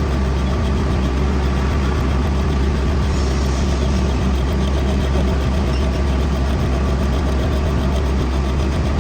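Metal-turning lathe running steadily, giving a constant low machine drone with a steady hum and no starts or stops.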